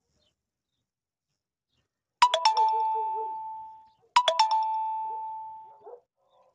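A bell-like chime, twice, about two seconds apart: each time a quick cluster of strikes that rings on as one fading tone.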